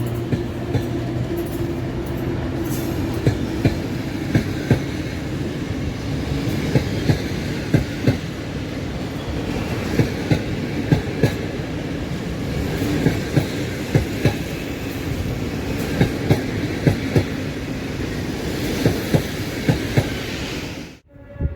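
Passenger coaches of an intercity train behind an EP07 electric locomotive rolling past, wheels clicking over rail joints in regular groups as each bogie crosses, over a steady rumble. The sound cuts off abruptly near the end.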